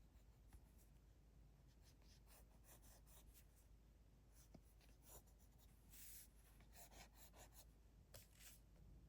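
Faint, short scratchy strokes of a drawing tool on sketchbook paper, coming in quick runs that grow denser in the second half.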